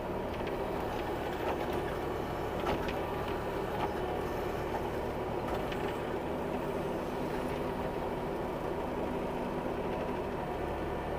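Bobcat E26 mini excavator's diesel engine running steadily under hydraulic load while the bucket digs, with a few short knocks scattered through it.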